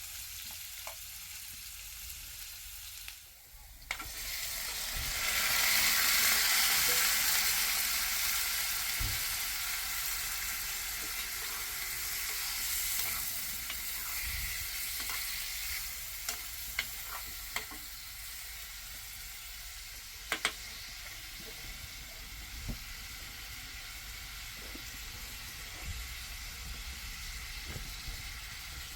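A steady hissing noise with scattered light clicks and knocks. It dips briefly about three seconds in, then swells and slowly eases.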